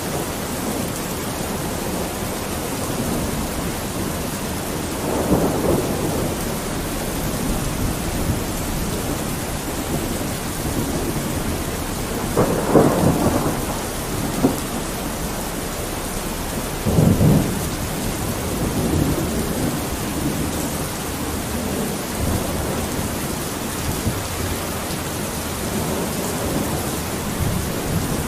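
Steady rain pattering on a window pane, with a few short, louder, lower bursts rising out of it now and then.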